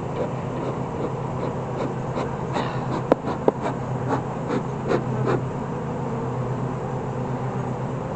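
Honeybees buzzing steadily, with a cluster of sharp clicks and knocks between about two and five and a half seconds in.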